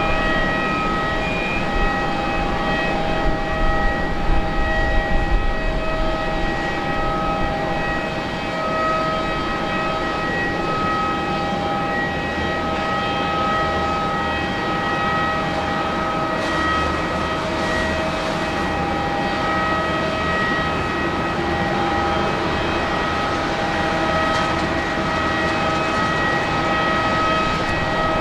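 Airbus A350-941 jet engines (Rolls-Royce Trent XWB) running steadily at low power: an even, multi-toned whine over a constant rushing hiss, with no spool-up.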